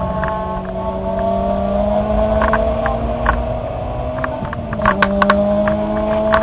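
Car engine heard from inside the cabin under steady acceleration on track, its pitch climbing slowly, dipping briefly about four and a half seconds in, then climbing again. A few sharp clicks and rattles are heard over it.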